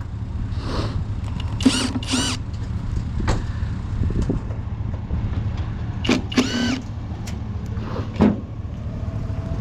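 A small pickup truck's engine running as it pulls away, a steady low rumble. A few short high-pitched sounds come over it, about two seconds in and again about six seconds in.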